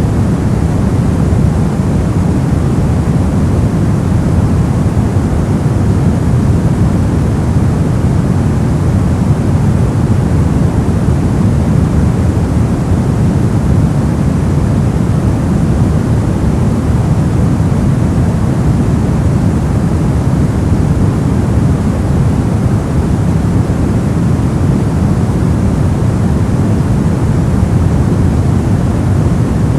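Steady, unbroken white-noise track, weighted toward the low end so it sounds deep rather than hissy, with no change in level or character.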